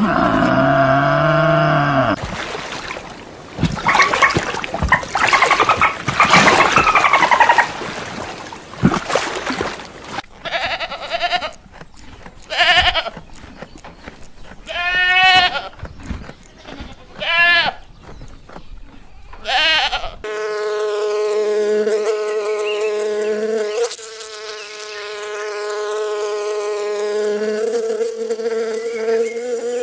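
A run of different farm-animal calls, including five or six short, wavering bleats in the middle. Near the end, a long steady buzzing drone lasts about ten seconds.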